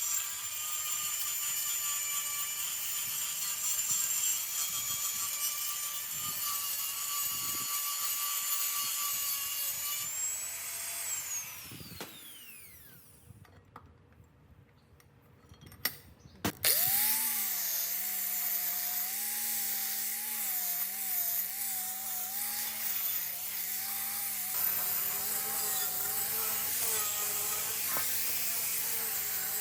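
Electric power tool motor running steadily, then switched off about ten seconds in and winding down with a falling whine. After a few clicks it starts up again and runs on with a slightly wavering pitch.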